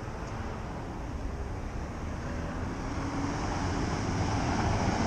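City street traffic noise, with a vehicle approaching and growing louder toward the end.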